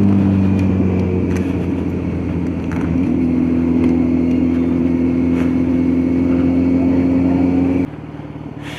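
Kawasaki Z900 inline-four engine idling. Its pitch dips slightly, steps up a little about three seconds in, then the sound cuts off abruptly near the end as the engine is switched off.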